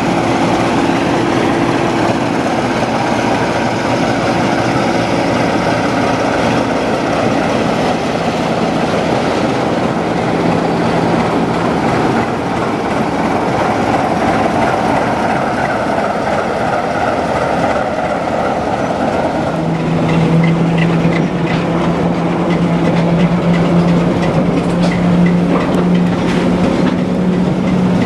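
Diesel locomotive running on the line, with a steady engine drone. About two-thirds of the way in the engine note shifts and grows a little louder, and faint regular clicking comes in.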